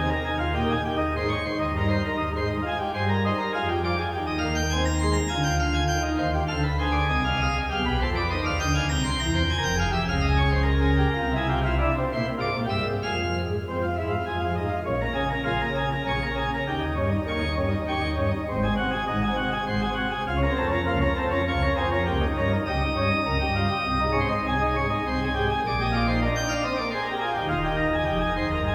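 Organ music: full, sustained chords that change every few seconds.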